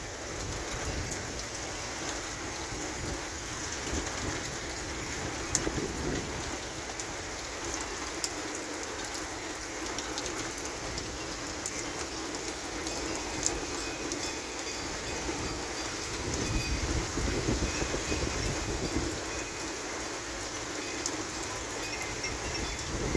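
Heavy thunderstorm rain falling steadily, with scattered sharp drop ticks. A low rumble swells for a few seconds about two-thirds of the way through.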